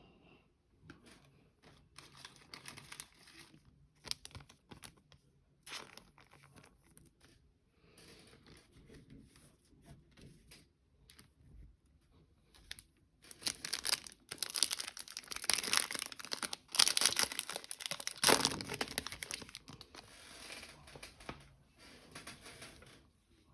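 Trading-card pack wrapper of 2021 Panini Select being torn open and crinkled, with cards being handled and shuffled. The crinkling and tearing come in scattered spells, loudest a little past the middle.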